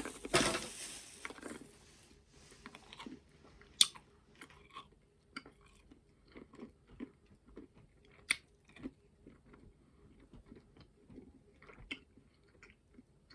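A person chewing a sour candy close to the microphone: soft, irregular mouth clicks and smacks, with a brief rustle in the first second or so.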